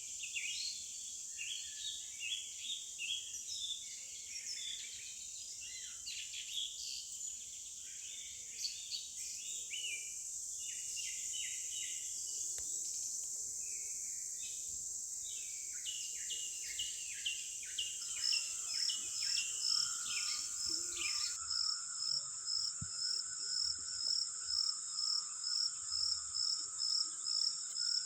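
Outdoor ambience: many small birds chirping over a steady high insect hiss. About two-thirds of the way in it changes abruptly to an insect chirping in an even pulse, nearly three chirps a second.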